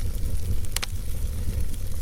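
Log fire burning in a fireplace: a steady low rumble from the flames, with one sharp crackle a little under a second in and a few faint ticks.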